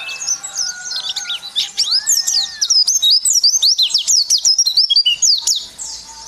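White-eye (pleci) singing a fast, high-pitched chattering song of quick sweeping notes, which grows denser and louder about halfway through. A few slower, lower whistles that rise and fall come in near the start and about two seconds in.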